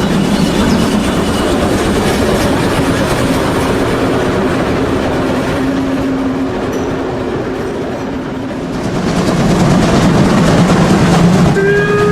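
Märklin model steam locomotives (BR 50 and BR 52 with sound) running with a long coke train, a steady running and rolling noise that dips briefly and swells again. A short whistle sounds near the end.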